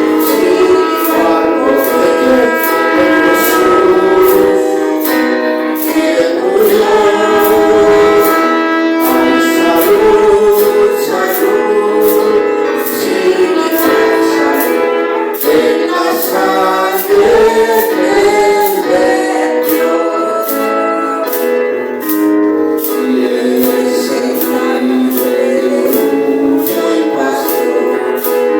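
Congregational singing of a Spanish gospel hymn, women's voices prominent, over instrumental accompaniment with a steady percussion beat about twice a second.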